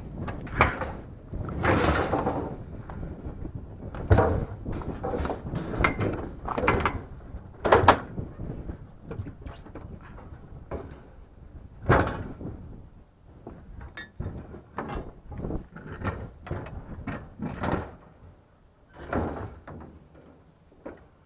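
Irregular knocks, clatters and scrapes of scrap items being handled and shifted, with sharper knocks about 4, 8 and 12 seconds in.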